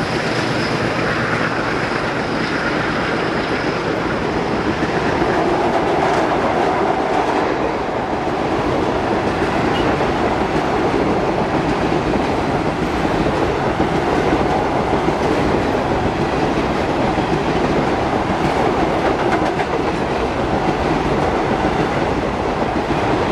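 Passenger coaches of an Indian Railways express passing close by at speed: a steady rumble and clatter of steel wheels on the rails.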